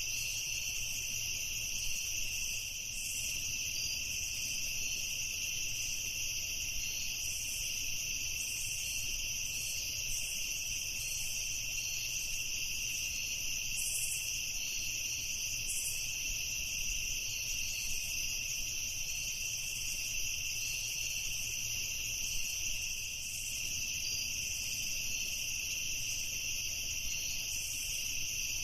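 A chorus of crickets chirping continuously, a steady high-pitched trilling that never lets up.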